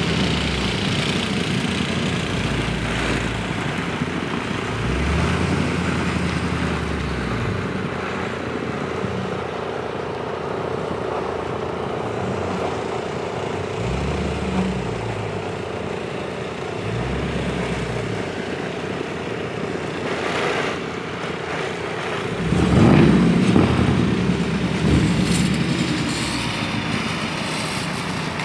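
Car engine running, its pitch rising and falling several times over a steady hiss, loudest about 23 seconds in.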